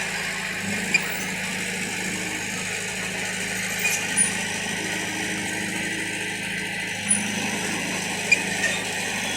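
Bulldozer's diesel engine running steadily with a low hum, with a few short knocks or clanks at intervals.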